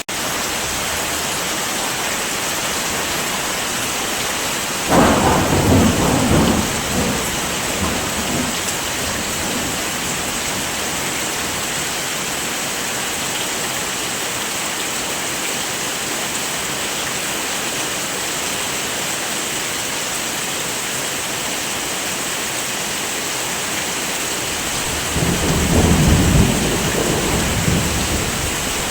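Steady heavy rain hissing, with two rolls of thunder: one starting suddenly about five seconds in and rumbling away over a few seconds, and a second, lower rumble building near the end.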